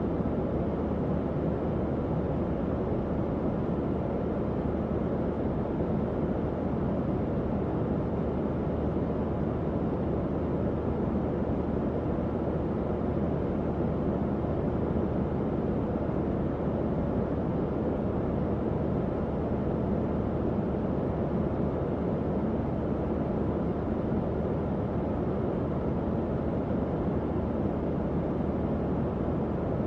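Tower fan running steadily: an even, low airy whoosh with a faint steady motor hum underneath.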